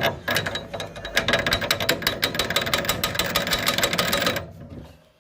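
Ratchet wrench clicking rapidly as a nut or bolt is turned on the table saw, stopping about four and a half seconds in.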